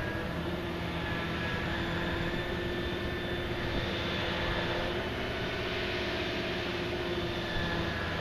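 Large diesel machinery running steadily: a continuous drone with a low hum and a faint whine that drifts slightly in pitch, typical of a big backhoe dredger's engines and hydraulics at work.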